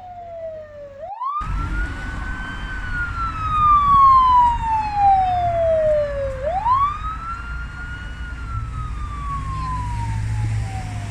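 Police siren sounding a slow wail. Each cycle rises quickly from a low pitch, then falls in a long sweep, about five to six seconds per cycle. It cuts out briefly about a second in and goes on over a low background rumble.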